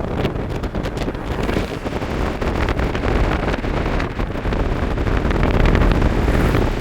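Heavy wind noise buffeting the microphone over a low, steady rumble.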